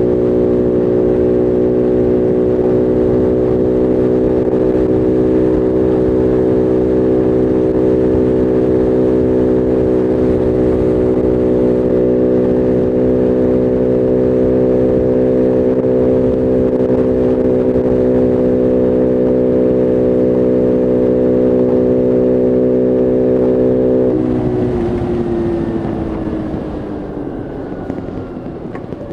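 Bullit Heritage 125cc monkey bike's single-cylinder four-stroke engine running under way at steady revs. Near the end the throttle is rolled off and the engine note falls away as the bike slows.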